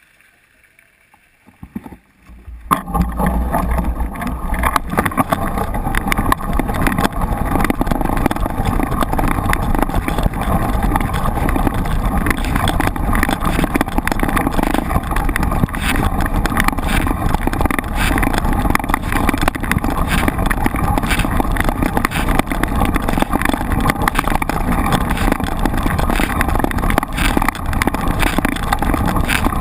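Wind buffeting and trail rumble on a camera riding on a moving mountain bike, a loud, steady rushing noise with a low rumble and constant rattle that starts suddenly about three seconds in.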